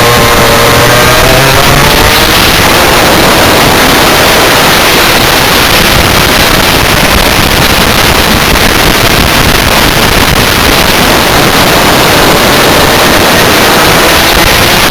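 Rotax Max Senior 125 two-stroke kart engine running at speed, its pitch dipping and rising in the first couple of seconds and again near the end, under a loud steady rush of noise.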